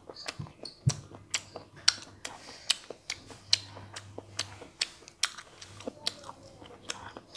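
Close-miked chewing of stir-fried chicken gizzards: an uneven run of short, sharp crunchy clicks and mouth sounds, several a second.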